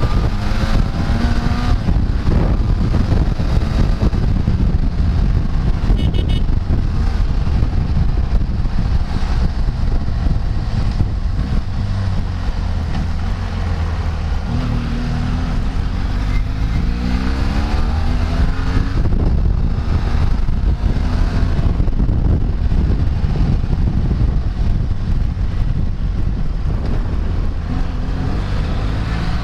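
Vehicle engine pulling through the gears on the move: its pitch climbs, then drops at each shift, several times over. Heavy wind rush on the microphone runs underneath.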